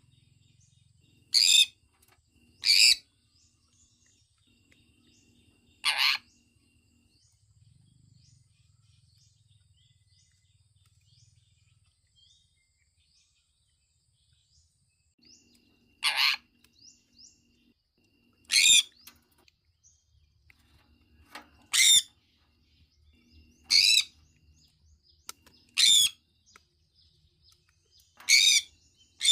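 Sun conure giving short, loud, shrill calls: three in the first few seconds, then a pause of about ten seconds with only faint chirping, then a run of six more calls about two seconds apart.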